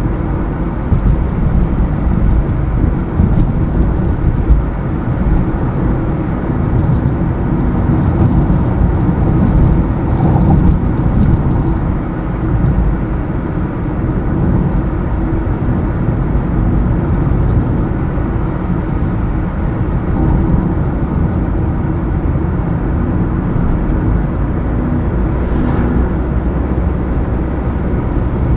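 Car driving at a steady speed along a highway: engine and tyre road noise making a steady low drone.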